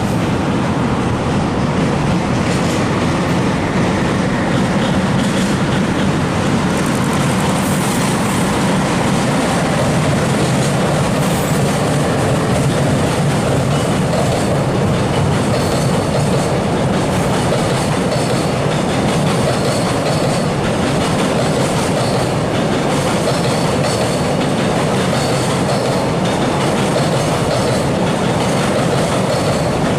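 Long freight train rolling past, its wagon wheels clattering steadily over the rail joints.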